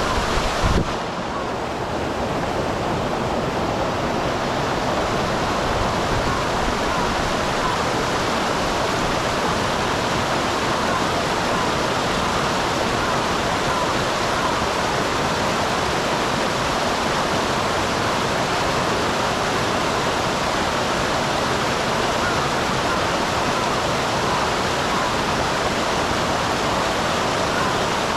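Small waterfall on a mountain stream, water rushing and splashing steadily. There is a brief low bump about a second in.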